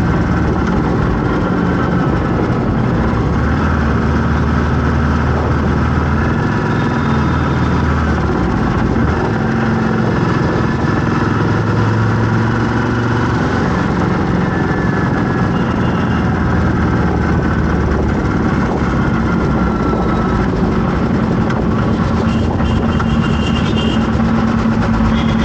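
Road traffic: vehicle engines running steadily, with several engine tones rising and falling as vehicles speed up and slow.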